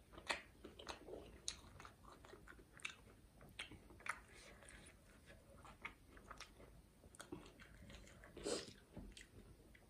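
Close-miked eating of fried vegetable momos: faint, irregular chewing with small crunches and wet mouth clicks. The loudest moments are a bite right at the start and another near the end.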